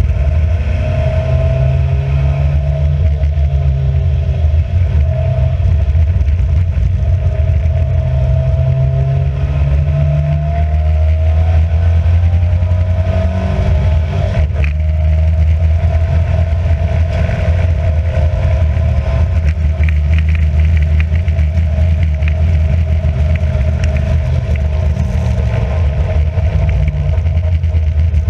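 Classic Alfa Romeo racing car's engine heard from on board at racing speed. Its pitch climbs and drops as the car accelerates, shifts and brakes, with one sharp knock about halfway through.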